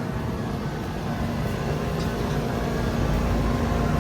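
A 2013 five-ton Thermal Zone central air conditioning heat pump's outdoor unit running: the steady whoosh of the condenser fan over the hum of its Copeland scroll compressor, growing slightly louder toward the end.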